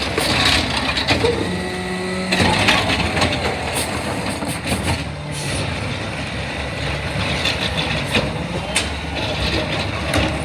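Garbage truck engine running, with scattered clanks and knocks. A short steady whine cuts off abruptly a couple of seconds in.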